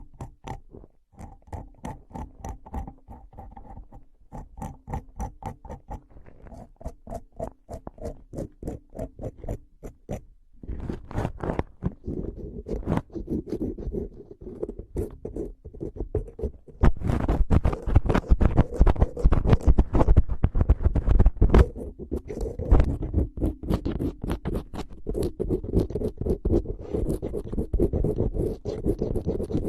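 Close-up ASMR tapping: quick repeated taps with a faint ringing tone under them. About ten seconds in they give way to dense scratching and rubbing, which gets louder a few seconds later.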